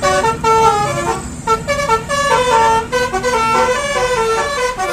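Bus telolet horn playing a quick melody of many notes, stepping from tone to tone several times a second, over the low steady running of the engine.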